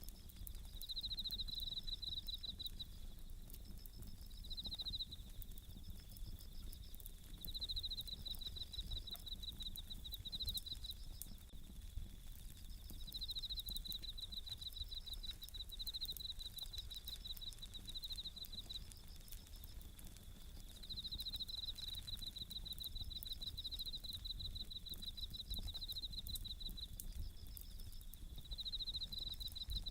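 Bell crickets (suzumushi) chirping: high, pulsing trills in phrases of a second or two, repeated over and over, with a second, fainter trill just above them. Underneath, a wood campfire crackles with many small sharp pops.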